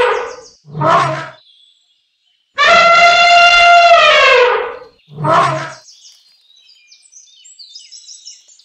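Elephant trumpeting, heard twice. Each time there is a long, loud trumpet blast whose pitch drops at the end, then a short lower call. Faint high chirps follow near the end.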